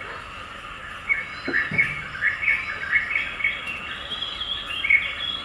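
Small birds chirping and twittering, a quick string of short chirps starting about a second in.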